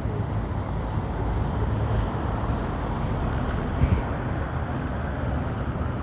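Steady low engine rumble mixed with wind noise, with a single brief thump about two-thirds of the way through.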